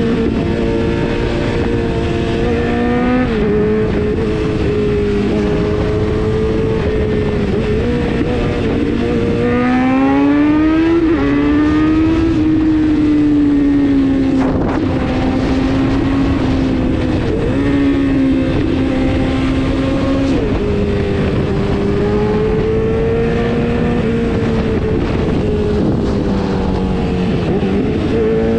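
Kawasaki Z900 motorcycle's inline-four engine running on the move, its pitch stepping up and down several times, with one long rising run about ten seconds in as it accelerates.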